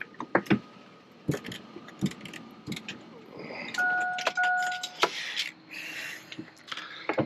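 Keys jangling and scattered handling clicks, with a vehicle's electronic warning chime, a steady two-tone ding, sounding twice in quick succession about four seconds in.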